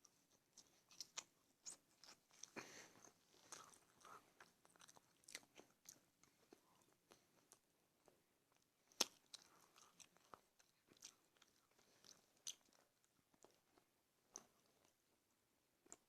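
Close-miked mouth sounds of a person chewing and biting food, soft overall, with many small wet clicks and crunches at an irregular pace and one sharper, louder click about nine seconds in.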